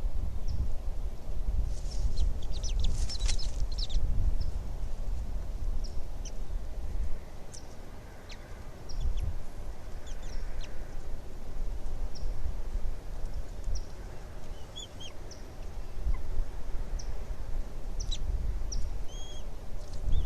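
Short, high bird chirps and calls over a steady low rumble, with a burst of rapid chirps about two seconds in and more scattered calls later on.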